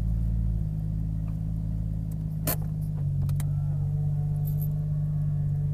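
Car engine idling, heard from inside the cabin as a steady low hum, with a sharp click about two and a half seconds in.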